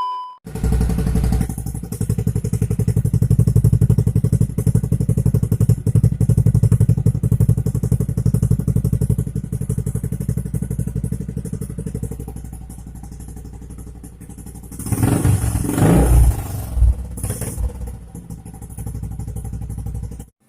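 Honda Supra X 125 FI's single-cylinder four-stroke engine running at idle through a Tsugi racing exhaust, with a quick rise in revs about fifteen and sixteen seconds in.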